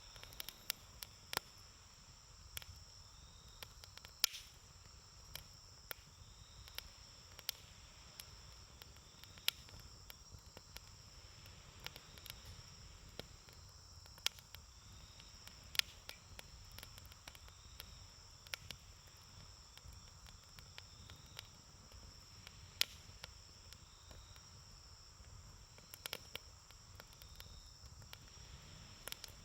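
Wood campfire crackling, with irregular sharp pops a few times a second. Underneath runs a steady high chirring of insects.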